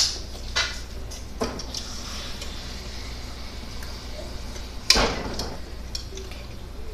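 Kitchenware being handled: a couple of light clicks and one sharper knock about five seconds in, over a faint hiss.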